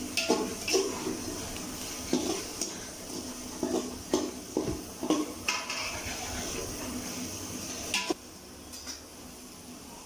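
A metal utensil clanking and scraping against a cooking pan in irregular strikes as the food is stirred, over a steady hiss; the clanking stops about eight seconds in.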